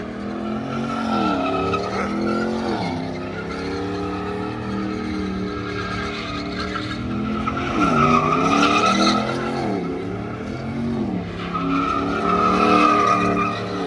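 Truck engine revving up and down over and over while its tires squeal continuously: a burnout or donuts. The squeal is loudest about eight seconds in and again near the end.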